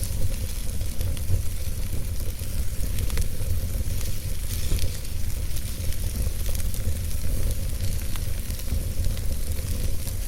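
Wood fire burning in a fireplace, crackling with scattered sharp pops over a steady low rumble and hiss.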